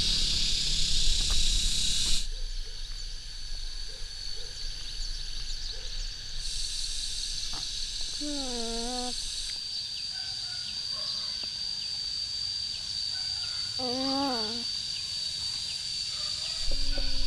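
A bird gives two short warbling calls, several seconds apart, over a steady high-pitched insect drone. The first two seconds also hold a rustling noise.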